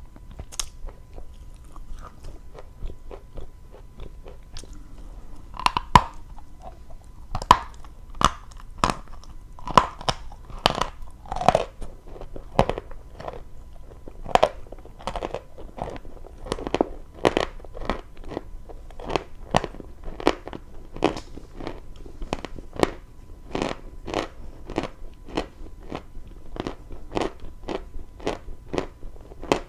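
Dry chalk being bitten and chewed close to the microphone: a run of sharp, brittle crunches, sparse and faint at first, then about two a second from roughly six seconds in.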